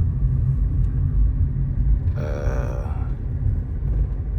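Steady low road-and-engine rumble inside a moving vehicle, with a brief wordless vocal sound, like a hum, about two seconds in.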